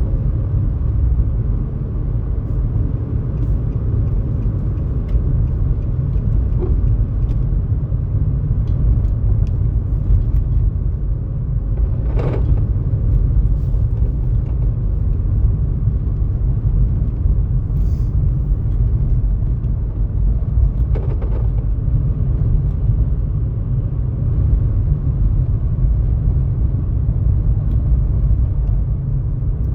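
Steady, loud low rumble with a few faint clicks.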